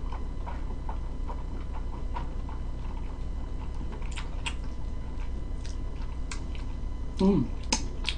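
Soft chewing of jjolmyeon noodles, with scattered light clicks of metal chopsticks against a glass bowl as the noodles are stirred and lifted, over a steady low hum. A short voiced 'mm' comes about seven seconds in.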